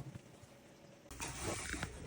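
A few light knocks, then about a second in a steady rush of water starts in the plumbing as the water supply is turned back on to test a newly fitted shower valve cartridge.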